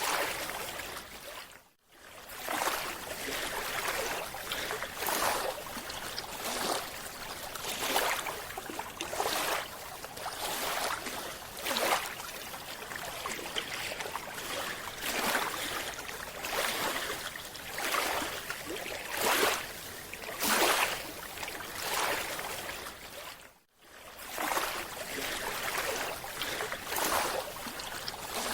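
Water sloshing and swishing in repeated surges about once a second, cut off briefly twice.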